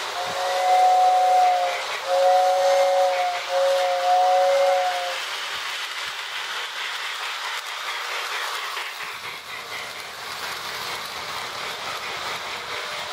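Marx WM Crooks toy steam train running, its Lionel Sound of Steam board giving a steady chuffing hiss. Its two-tone whistle blows three times in the first five seconds; the last two blasts nearly run together.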